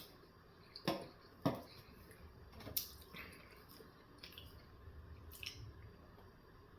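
Close-miked eating mouth sounds: a few wet smacks and clicks of chewing, the strongest in the first three seconds, then fainter.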